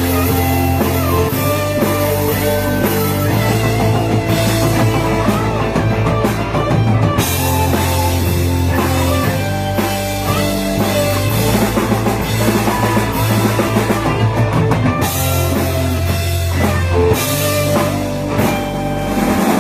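A rock band playing a song, with drum kit, guitar and a steady bass line.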